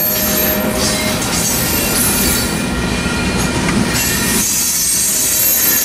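Loaded coal cars of a freight train rolling past, their steel wheels on the rails making a loud, steady rolling noise with thin, high squealing tones.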